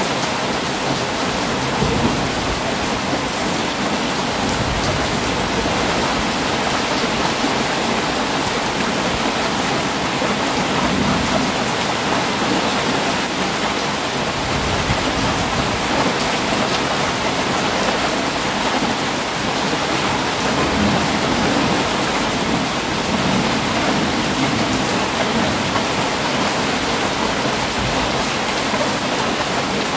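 Heavy rain falling steadily, with low rumbles of thunder coming and going every few seconds.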